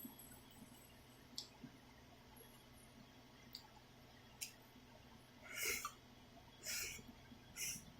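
Quiet eating of black bean ramyun noodles. A few faint clicks, then three short, louder mouth sounds about a second apart near the end.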